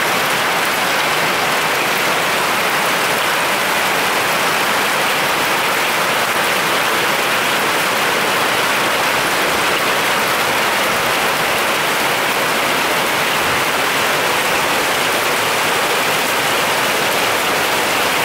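Heavy rain pouring down steadily on a paved street and lawns, a loud, even hiss with no let-up.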